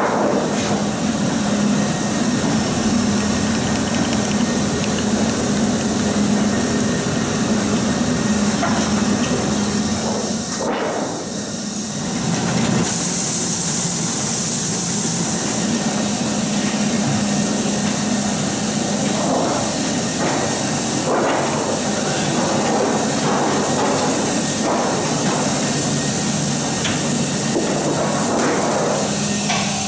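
Sheet-fed offset printing press running: steady machine noise with a hiss and a low hum, dropping briefly about eleven seconds in.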